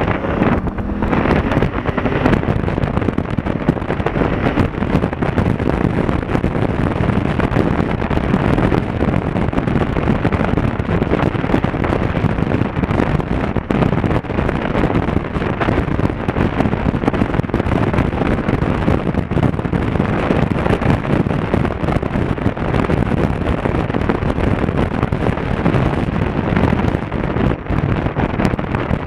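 Wind buffeting the microphone of an action camera on a moving motorcycle, a steady loud rush with constant crackle, with the Honda Africa Twin CRF1000L's parallel-twin engine running underneath.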